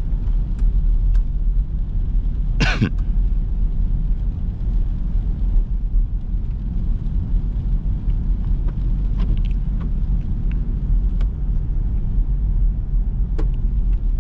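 Steady low rumble of a Jeep Grand Cherokee SRT's engine and road noise heard from inside the cabin, the exhaust running with a mid-muffler delete. A short, loud, cough-like sound cuts in about three seconds in.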